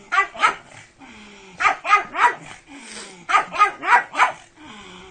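Pug barking in three quick bursts of three to five sharp barks each, with a faint low whine in the gaps between bursts.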